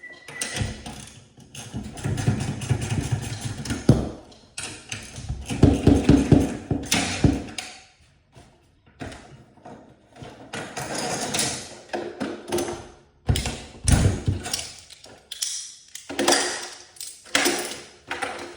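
Metal garage door hardware and tools clanking, knocking and rattling in irregular bursts, with short pauses between them.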